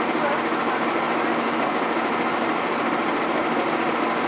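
GO Transit bilevel commuter train standing at the platform with its equipment running: a steady, unchanging hum with one constant low tone.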